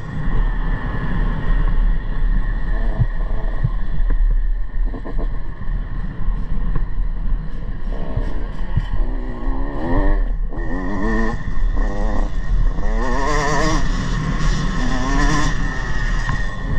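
Motocross dirt bike engine revving up and down repeatedly as the bike is ridden round the track, over a constant low rumble of wind on the microphone.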